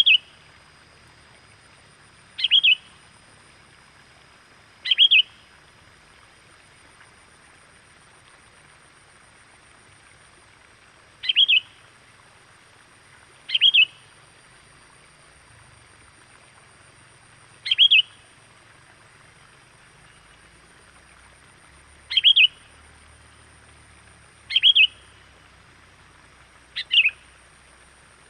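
Sooty-headed bulbul (kutilang) lure call: nine short, sharp chirping calls repeated every few seconds at uneven intervals, used to draw wild bulbuls in.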